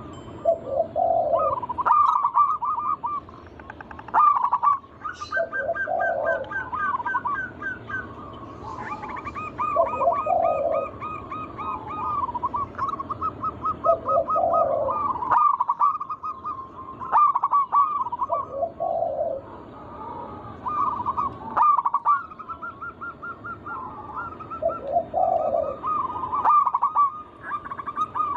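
Several zebra doves (perkutut) cooing over one another in rolling, trilled phrases. The calls overlap through the whole stretch, and a deeper closing note comes about every four to five seconds.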